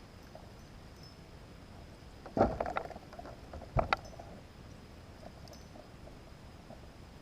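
Knocks and a short clatter on a small jon boat: a loud bump with rattling about two and a half seconds in, then a sharp double knock about four seconds in, over a faint steady high whine.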